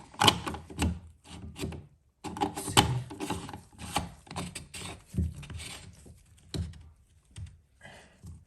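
Large plastic drain pump filter of a Miele W1 washing machine being screwed back into its housing and tightened: irregular plastic knocks, clicks and scraping as it is turned in, with a brief pause about two seconds in.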